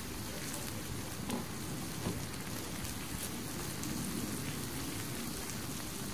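Pork belly sizzling steadily on a hot stone grilling slab, with a few faint pops.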